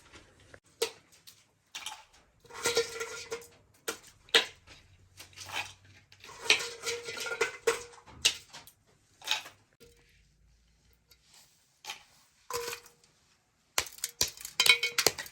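Kitchen work: irregular clinks, knocks and short scrapes of pots, dishes and utensils, some with a brief metallic ring, and a quieter pause about two-thirds of the way through.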